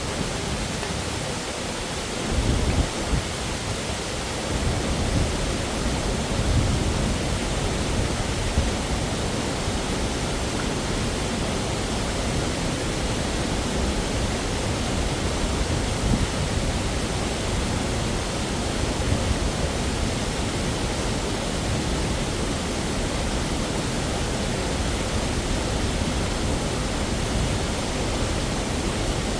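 Waterfall rushing: a steady, even wash of falling water with an uneven low rumble underneath.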